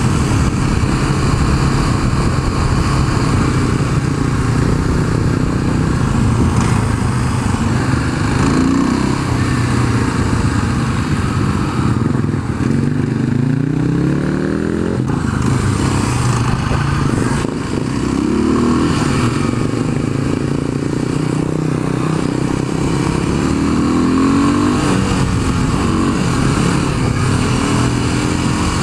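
Dirt bike engine running while being ridden, its pitch climbing and dropping several times as the throttle is opened and closed.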